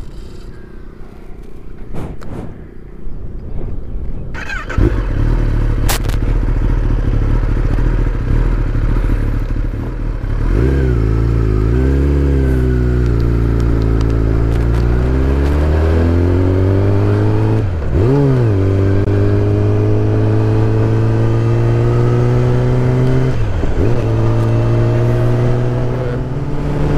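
Motorcycle engine under way, coming in sharply about five seconds in. Its pitch rises as it accelerates, then twice dips briefly and climbs again as it shifts up through the gears.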